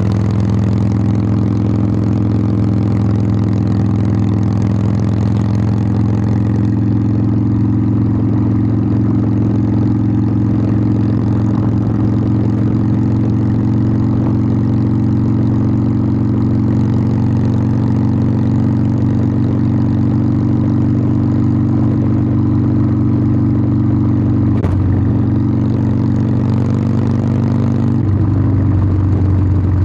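Harley-Davidson Sportster 1200's air-cooled V-twin exhaust, held at a steady engine speed while riding, with a brief shift in pitch about 25 seconds in and again near the end.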